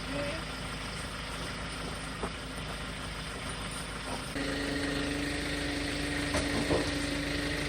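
Engine of the firewood delivery truck idling with a steady low hum, stepping up to a louder, steady drone about four seconds in, with a few faint knocks.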